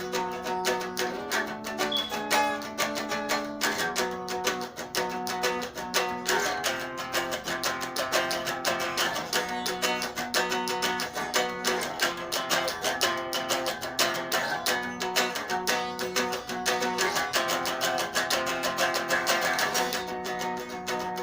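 Solo guitar playing an instrumental piece: a rapid, continuous run of picked notes over sustained low notes, a little softer near the end.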